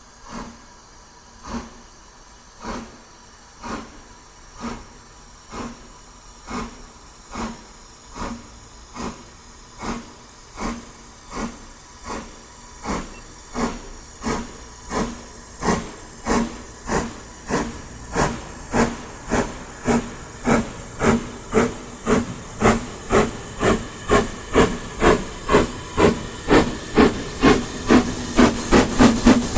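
Steam locomotive exhaust beats, getting steadily quicker and louder as the engine works harder: about one chuff a second at first, nearly two a second near the end.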